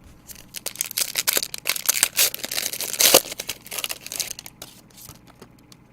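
Crinkling and tearing of plastic trading-card packaging as cards are unwrapped and handled: a dense run of crackles that peaks about three seconds in and thins out near the end.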